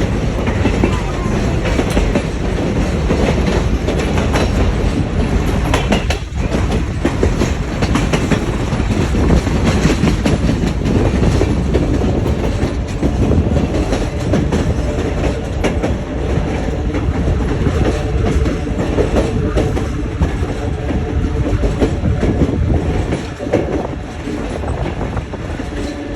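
Passenger train running along the track: a steady rumble of wheels on rail with frequent clicks over the rail joints, heard from on board.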